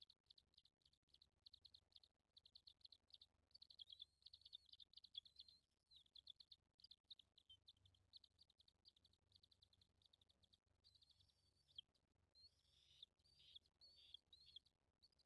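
Faint, high-pitched bird chirps in quick runs, many a second, giving way near the end to longer calls that slide up and down in pitch.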